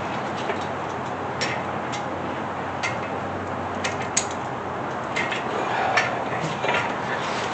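Scattered light metallic clicks and clinks of hand tools and bolts being handled, over a steady background hiss.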